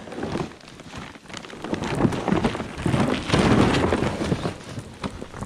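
Snow crunching and scraping as a person and a loaded gear sled slide down a snowy slope. It is a rough, crackly noise that swells to its loudest in the middle and eases off near the end.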